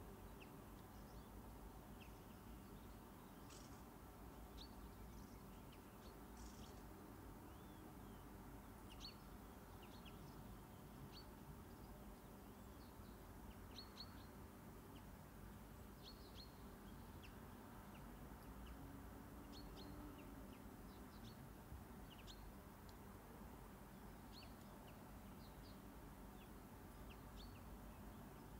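Near silence: low steady room hum with faint, scattered short high chirps of small birds.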